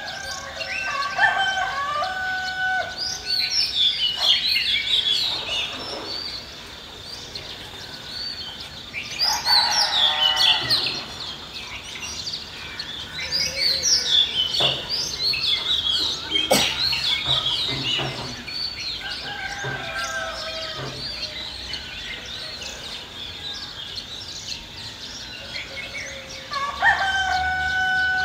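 Village ambience: roosters crowing several times, with small birds chirping throughout.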